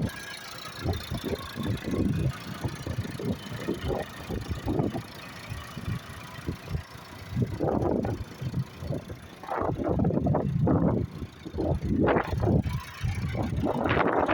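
Massey Ferguson 283 tractor's diesel engine running hard under working load, its level surging unevenly and louder in the second half.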